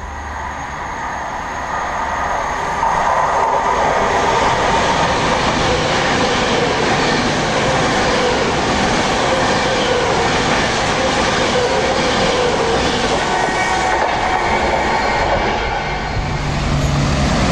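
Virgin Class 390 Pendolino electric train passing through at speed: a steady rush of wheels on rail that builds over the first few seconds, then holds loud. It dips briefly near the end, when another train is heard coming in.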